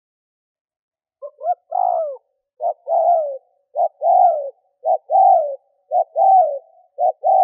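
Male spotted dove cooing in a fast series: a short note followed by a longer falling coo, repeated about once a second, starting about a second in. This is the quick 'gù' coo used as a decoy call to stir up wild doves.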